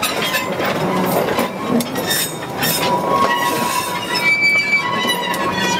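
Freight train rolling by, its wagon wheels squealing against the rails in several held high tones, over a steady rumble with scattered clicks and clanks.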